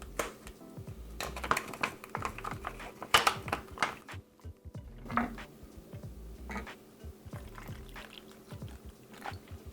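Water being poured into a plastic drink pouch, the pouch crinkling and rustling as it is held and handled.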